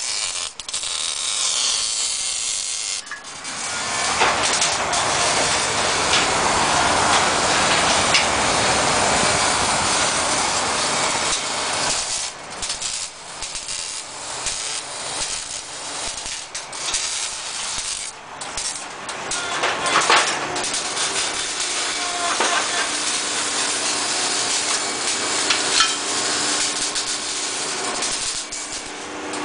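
Shop tools working on exhaust pipe, giving a loud hissing, rasping noise. It is strongest for several seconds starting about four seconds in, then comes in uneven stretches with a few sharp knocks.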